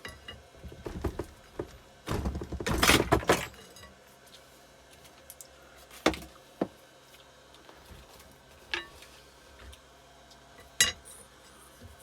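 Steel pry bar and tools clanking and scraping against a motorcycle engine while working a stuck part. A rattling metal scrape comes about two seconds in, then three separate sharp clinks.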